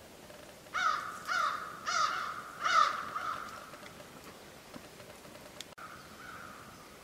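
A bird giving four harsh cawing calls in quick succession, then a fainter, longer call near the end.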